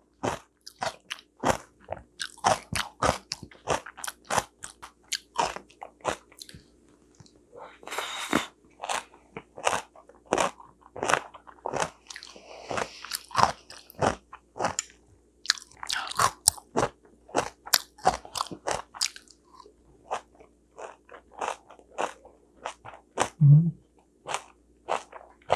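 A person chewing and crunching food close to a clip-on microphone: a quick, irregular run of sharp crunches and wet mouth clicks, easing off briefly around twenty seconds in.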